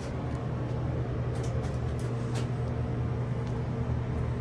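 Steady low hum of a traction elevator car travelling up the shaft, heard from inside the cab, with a few faint clicks.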